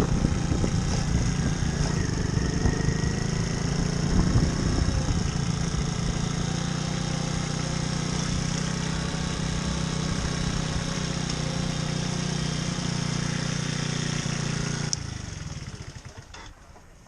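Small moped engine running steadily at low speed, then cutting off suddenly near the end.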